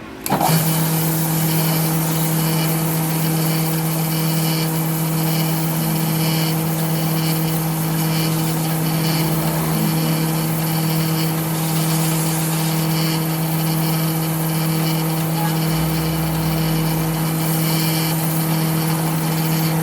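A machine running steadily with a constant low hum and mechanical noise, starting abruptly just after the beginning.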